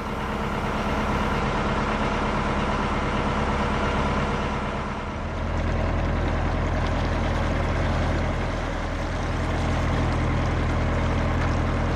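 Narrowboat's diesel engine running steadily; its low note grows stronger about five seconds in.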